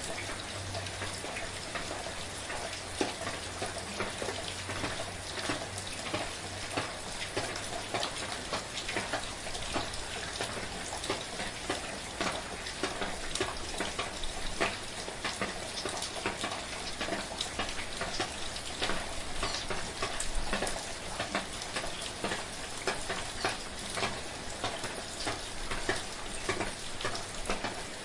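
Steady rain with a dense, crackling patter of many small drops.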